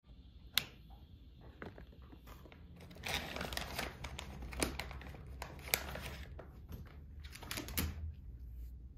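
Plastic dog-treat bags crinkling and rustling as they are handled, busiest from about three seconds in, with a few sharp clicks.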